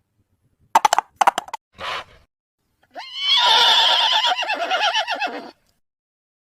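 A few horse hoof clops, then a horse neighing for about two and a half seconds, rising at the start and then wavering.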